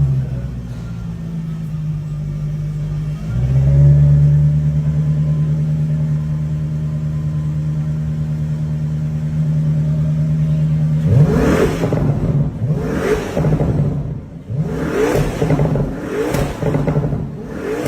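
Toyota GR GT's twin-turbo V8 running at a steady speed, stepping up a little after about three seconds, then revved in five or six quick throttle blips, each rising and falling sharply, through its exhaust.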